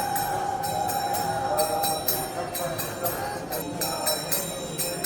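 Temple bells and cymbals struck over and over, a few strikes a second, each ringing on, with voices chanting underneath during the morning arati.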